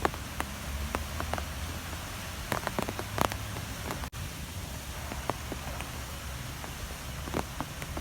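Strong wind blowing steadily with a low rumble, dotted with scattered sharp taps like drops or debris striking a surface. There is a brief dropout about four seconds in.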